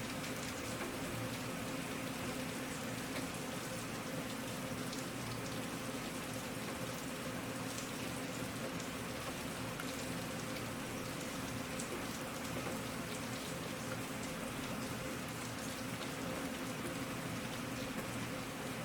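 Steady rain falling, with scattered individual drops ticking on a surface, over a faint steady low hum.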